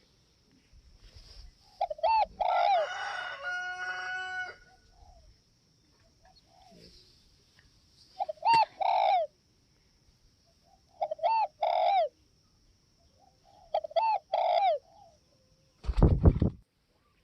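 Spotted dove cooing in short phrases of two or three arched notes, four times over. A short, loud thud comes near the end.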